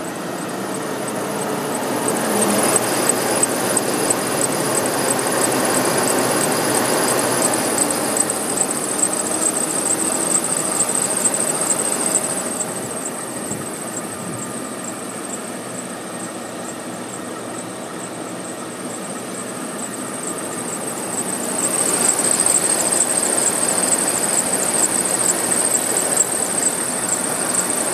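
Mercedes-Benz V-Class (W639) engine bay with the engine running and a high-pitched squeal, the abnormal noise under investigation. The squeal and engine noise ease off for a while in the middle, then grow louder again.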